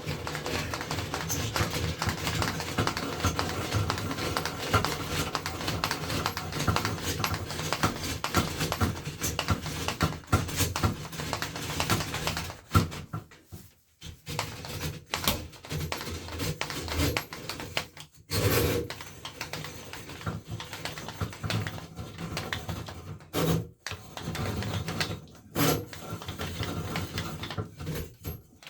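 Drain snake cable being spun and pulled back out of a sink drain: a rapid rattling clatter of the coiled cable in the pipe and drum, stopping briefly three times.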